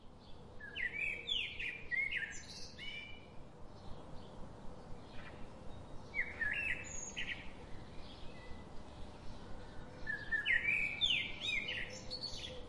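Songbird singing: three phrases of quick sliding high notes, a few seconds apart, over a faint steady hum and hiss.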